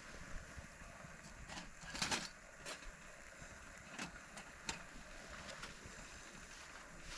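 Wood fire crackling, with scattered sharp pops and one longer crackle about two seconds in, over low steady background noise.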